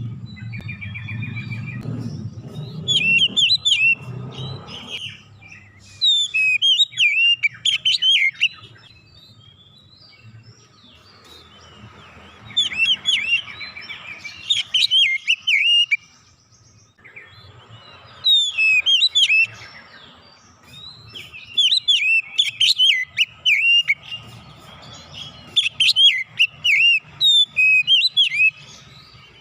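Oriental magpie-robin (kacer) singing: bursts of rapid, varied chirping and whistled notes, delivered in phrases of a second or a few seconds with short pauses between them.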